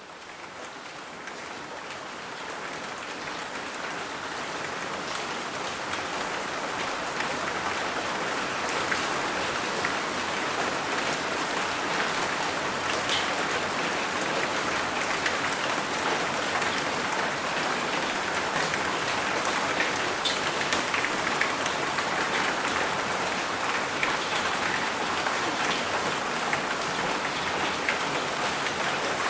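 Steady rain falling, fading in over the first several seconds to a constant hiss, with individual drops ticking sharply now and then.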